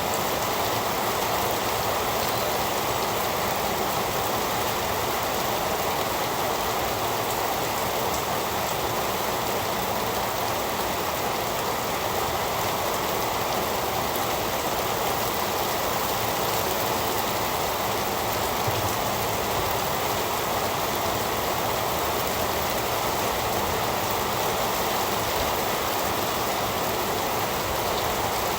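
Heavy rain falling steadily: an even, unbroken hiss of rain with no thunder or other events.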